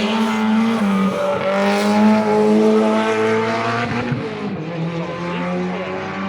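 Rally car engine running loudly at held revs, its pitch shifting up and down a few times.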